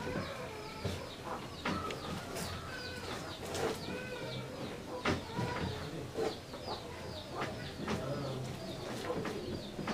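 Birds calling: many short chirps overlapping throughout, with lower-pitched calls beneath them. A few sharp knocks come through, the loudest about five seconds in.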